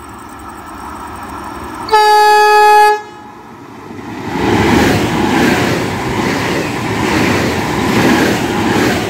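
Double-deck electric regional train sounds one steady horn blast about two seconds in, lasting about a second. From about four seconds in it passes close by, the noise of its wheels and running gear on the rails growing loud.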